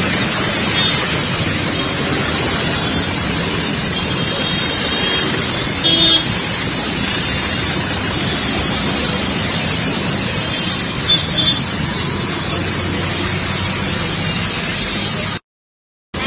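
Steady rush of fast-flowing floodwater, with a brief pitched tone about six seconds in. The sound cuts off abruptly near the end.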